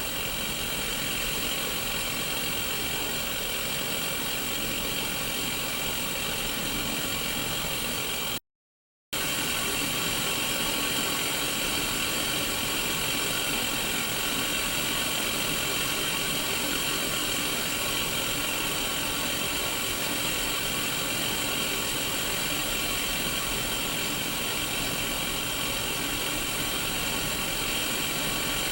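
Sony Mega Watchman mini CRT TV hissing with untuned white-noise static through its small speaker, steady and even with faint steady tones running through it. It cuts out completely for about half a second about eight seconds in, then resumes.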